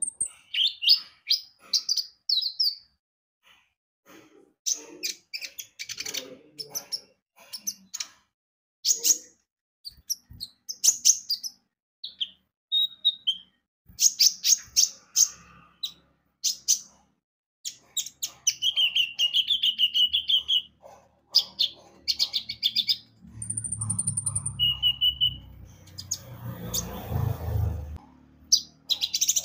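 Kolibri ninja (konin), a small sunbird, singing in rapid bursts of sharp, high chirps and twittering trills, with a short buzzy trill partway through. A low rumbling noise runs under the song for a few seconds near the end.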